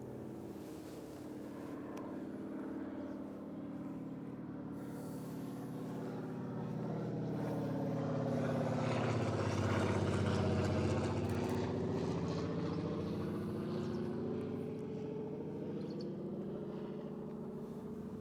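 Engine of a passing vehicle, a steady hum that grows to its loudest about halfway through and then fades away.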